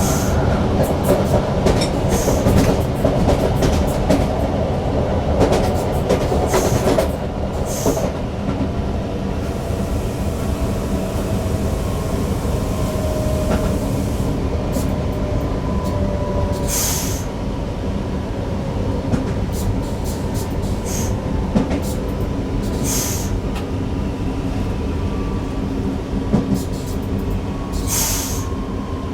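Newag Impuls EN63 electric multiple unit running along the line, heard from the driver's cab: a steady rumble of wheels on rail with scattered sharp clicks, and faint thin whining tones that drift slowly in pitch.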